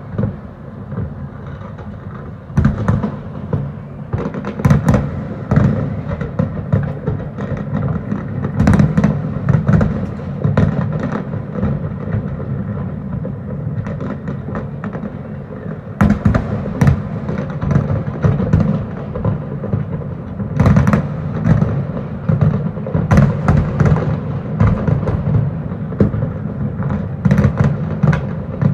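Aerial fireworks bursting in rapid volleys: a string of sharp cracks and bangs over a continuous low rumble. The bangs thin out briefly in the middle, then come thick again.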